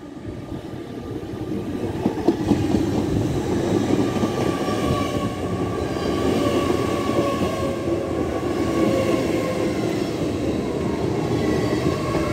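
A GWR Hitachi Intercity Express Train running in close past, its carriages rumbling over the track. It grows louder over the first two seconds and then holds steady, with thin high squealing tones over the rumble.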